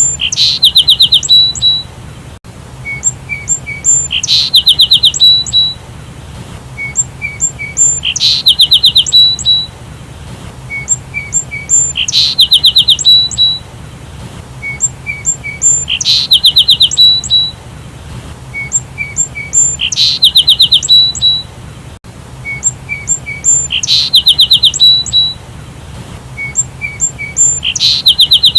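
Sparrow chirping: a few short high chirps, then a quick run of rapid notes, the same phrase repeated about every four seconds.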